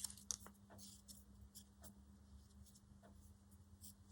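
Faint crafting sounds of card and paper being handled: a scattered series of soft clicks and small rustles over a faint steady hum.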